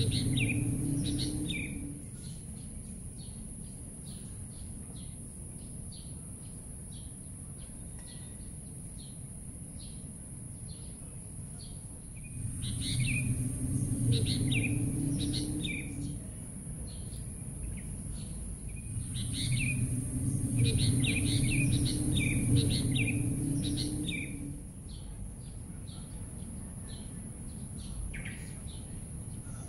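Birds chirping in three spells of quick high calls, over a steady high hiss and a low rumble.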